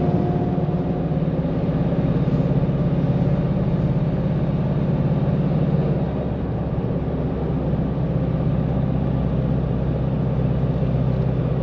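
Nissan Navara engine and road noise heard from inside the cab while towing a heavy caravan up a long climb. The engine note is steady, then drops a little about six seconds in.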